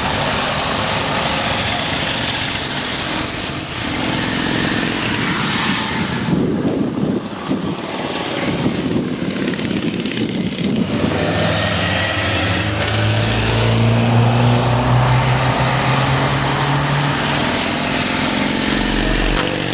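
Car engines running at speed, with pitch rising and falling as they rev. A steady low engine drone comes in about twelve seconds in and holds for several seconds.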